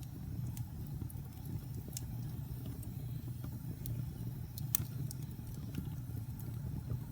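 Wood fire burning in a fireplace: a steady low rumble with scattered crackles and pops, one sharper pop about two-thirds of the way through.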